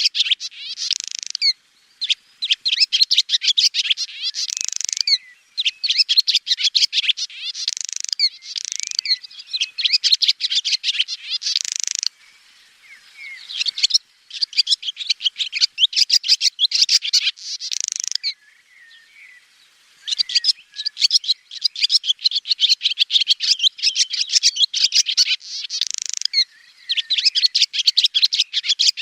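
Swallow song: twittering phrases of rapid high chirps, each a few seconds long and often ending in a brighter, buzzy note. Short pauses separate the phrases, with two longer lulls past the middle.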